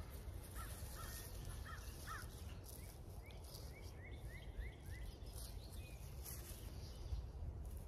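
Faint songbird chirps: a few short chirps early, then a quick run of about six rising chirps around the middle, over a steady low outdoor rumble.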